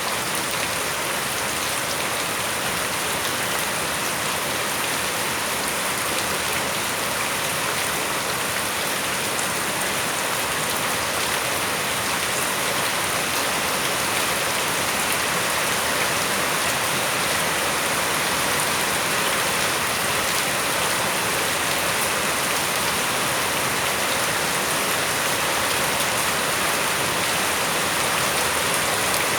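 Steady, heavy rain falling and pattering on surfaces, an even hiss of water with no pauses.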